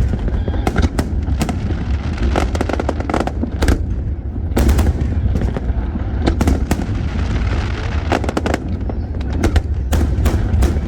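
Aerial fireworks display: many sharp bangs in quick, irregular succession over a continuous low rumble, with a stretch of dense crackling a little past the middle.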